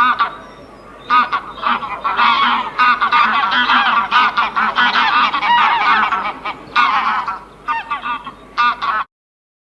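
Several geese honking, the calls overlapping in a dense chorus that cuts off suddenly about nine seconds in.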